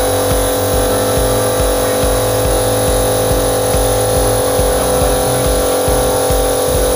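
Air compressor for an airbrush running steadily: a loud, constant drone with an uneven low pulsing underneath.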